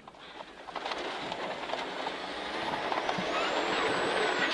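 Rally car driving a snowy stage, heard from inside the cabin: engine and tyre noise building as the car accelerates, with a faint rising whine.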